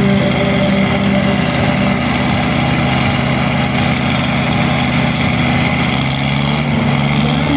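Massey Ferguson 260 tractor diesel engines running steadily and loudly.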